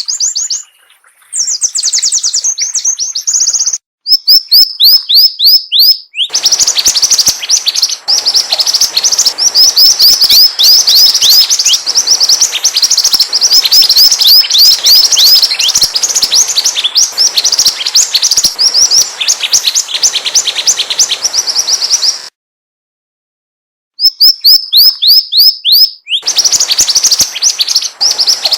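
Mantenan bird calling as a bird-trapping lure: rapid runs of high, downward-sliding chirps, several a second, broken by abrupt short silences and one silence of about two seconds late on.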